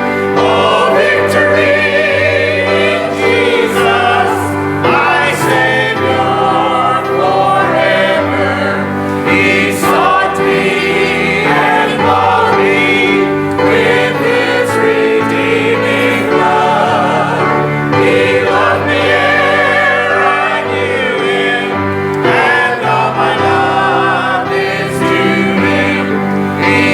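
Church choir singing a gospel hymn.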